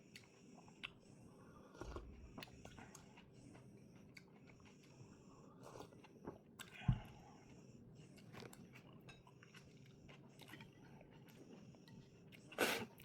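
A person chewing and crunching a mouthful of stir-fried cabbage and carrots with egg, softly, with scattered small clicks. A short dull thump about seven seconds in and a louder brief crunch near the end.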